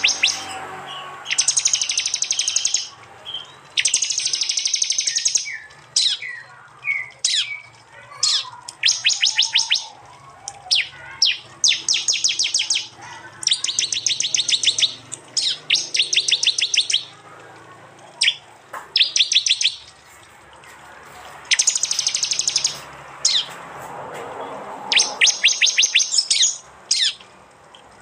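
Prinias (prenjak) singing high-pitched, rapid ticking trills in short bursts of half a second to a second, repeated a dozen or so times with brief pauses and scattered single notes between. These are the loud, shot-like phrases (tembakan) used to tutor songbirds.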